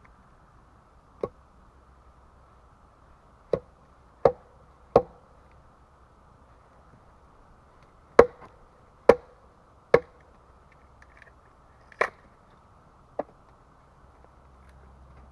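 Hand tool striking wood: nine sharp blows at uneven intervals, some in quick runs of two or three, the loudest about eight and nine seconds in.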